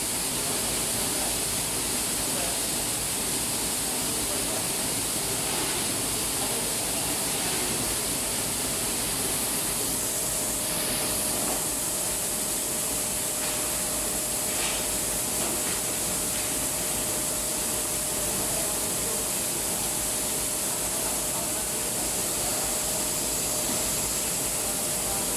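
Rice milling plant machinery running steadily, a continuous hissing mechanical noise, with a faint steady tone coming in about halfway through.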